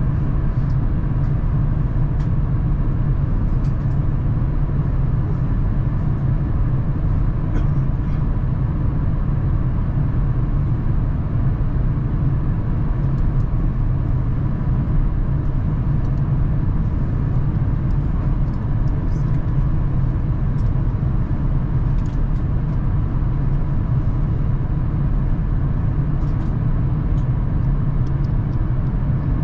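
Steady airliner cabin noise in flight inside an Airbus A350-1000: an even, deep rumble of airflow and engines, with a faint steady hum and a few small ticks.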